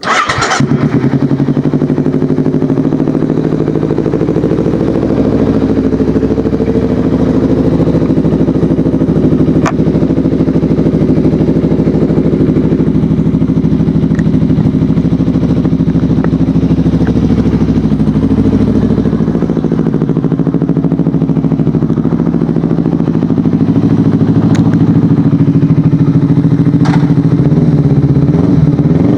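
Kawasaki Ninja 250FI's parallel-twin engine firing up through an aftermarket Akrapovic exhaust, then idling steadily. The idle grows a little louder in the last few seconds.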